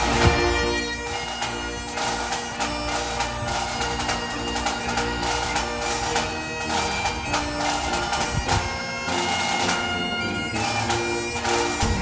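Bagpipe music: a melody played over steady drones.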